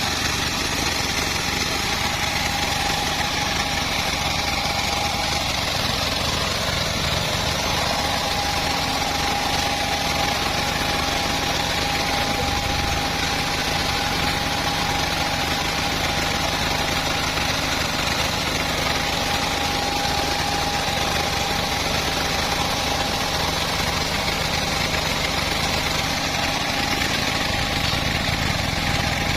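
Homemade bandsaw mill running steadily, with a constant whine at one pitch over its motor's drone.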